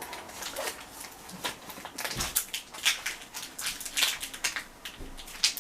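Irregular crackling, rustling and light clicks of plastic being handled: protective film or a sticker being peeled from the plastic water-tank lid of a countertop dishwasher.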